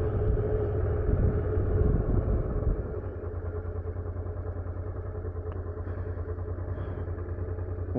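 Honda motorcycle engine running at low speed, then settling to a steady idle about three seconds in.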